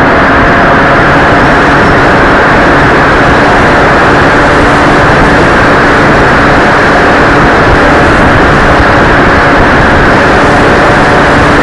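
Loud, steady rushing noise with a faint steady hum underneath: wind buffeting the microphone over the running motor of an RC plane in flight.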